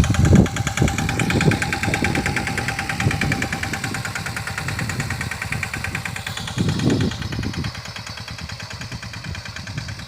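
Diesel engine of a sanedo farm tractor running with a rapid, even knock, growing fainter over the last few seconds, with a few low thumps.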